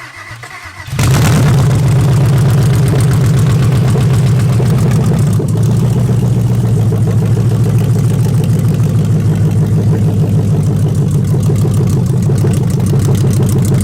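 Ford Coyote 5.0L DOHC V8 on a run stand being started. The starter cranks briefly, the engine catches about a second in, and it settles into a steady, loud idle with even firing pulses.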